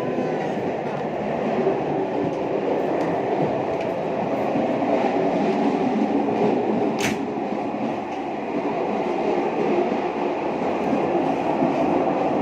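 Steady rumble and rattle of a moving vehicle heard from inside it, with one sharp click about seven seconds in.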